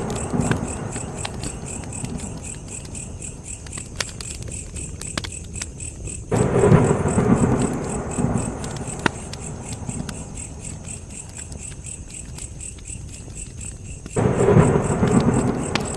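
Campfire burning, with scattered sharp crackles and pops and crickets chirping steadily in the background. Twice, about six and fourteen seconds in, a deep rumble surges up suddenly and fades over a few seconds.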